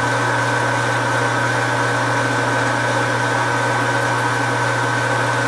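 Metal lathe running steadily with a radius form tool held in the cut, letting chatter clean up. A constant low hum with a thin steady high whine over it.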